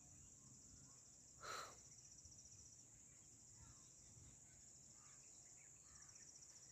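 Faint, steady high-pitched chirring of insects, a fast even pulsing that never stops, with a brief rustle about a second and a half in.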